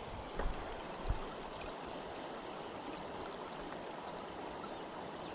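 Steady rush of river water, the river running high after floods, with a couple of soft knocks in the first second or so.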